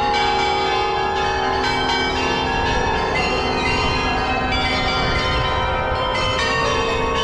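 Church bells pealing, with many overlapping bell tones and new strikes coming in every second or so.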